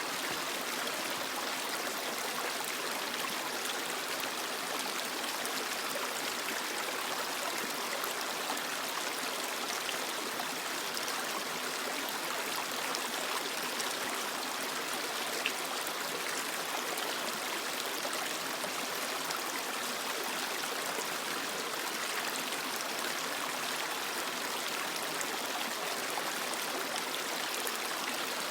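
Creek water running steadily over rocks, a continuous rushing with small trickles and splashes through it.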